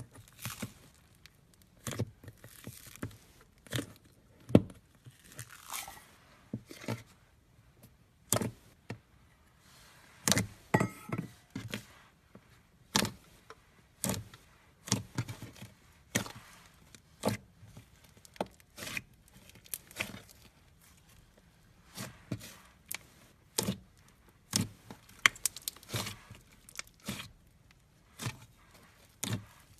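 Foam-bead slime (floam) being squeezed and pressed by hand, giving irregular sharp crackles and clicks, about one or two a second, with a few longer rustling squishes.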